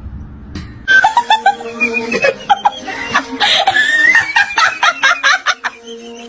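A person laughing hard in quick, chopped bursts, starting about a second in.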